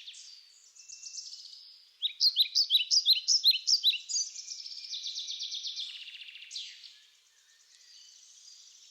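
Small songbird singing: a rapid run of sharp, downward-sweeping chirps and fast trills, loudest a couple of seconds in and fading near the end.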